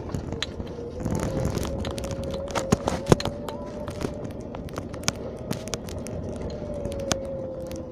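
Car cabin noise while driving: a low rumble with a steady whine that rises slightly and falls back, and frequent sharp clicks and knocks, the loudest about three seconds in.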